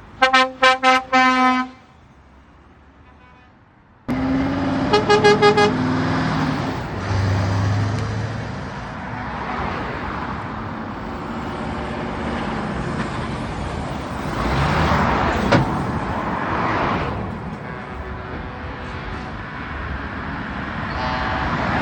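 A truck air horn gives about five quick blasts, then a higher-pitched horn gives a fast run of short toots a few seconds later. Heavy trucks' engines and exhausts then run steadily as they pull away, getting louder for a few seconds past the middle, with another brief horn near the end.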